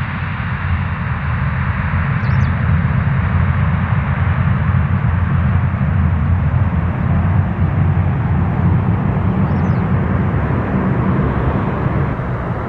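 Jet airliner's engine noise after takeoff: a steady low rumble with a broad roar above it.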